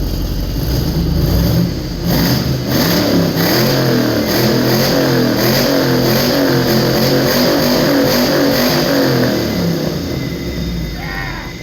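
AMC Eagle's freshly installed replacement engine running just after its first start. The revs come up about two seconds in and hold with a wavering pitch, then fall back toward idle near the end.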